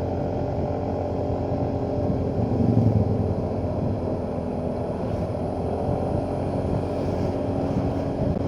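Motorcycle engine running steadily at low speed on an uphill climb, with a short swell in engine note about two and a half seconds in.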